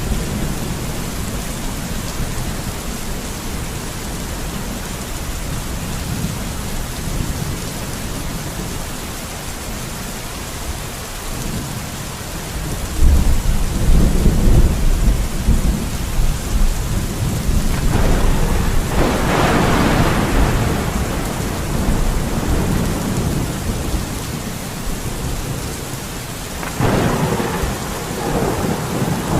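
Steady rain, with a low rumble swelling up about halfway through, then louder surges about two-thirds of the way in and again near the end.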